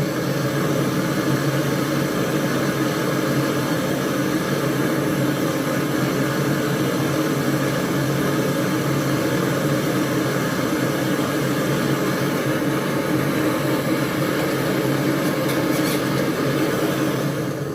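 A machine running steadily: a low hum with an even hiss over it, easing down near the end.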